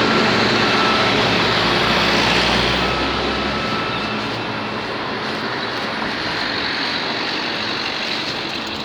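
Road traffic noise: a motor vehicle passing close with a low rumble, loudest for the first three seconds, then easing into a steady traffic rush.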